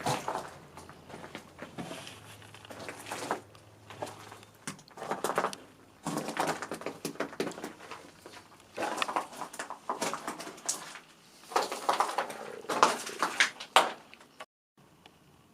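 Footsteps crunching and scuffing over a debris-strewn floor, in irregular clusters of clicks and crunches that grow louder partway through and stop abruptly near the end.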